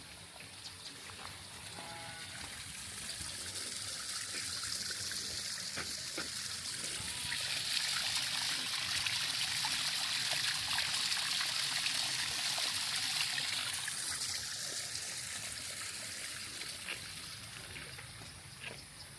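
Running water trickling and splashing. It grows louder over several seconds, is loudest midway, then fades away again.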